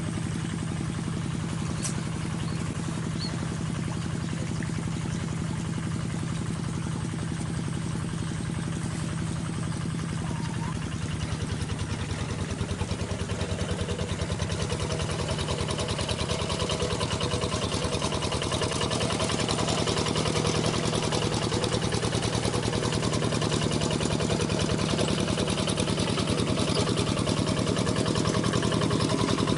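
Single-cylinder diesel engine of a hand-cranked paddy tractor, running steadily after starting. It gets louder about eleven seconds in and again a few seconds later, then keeps rising slowly toward the end.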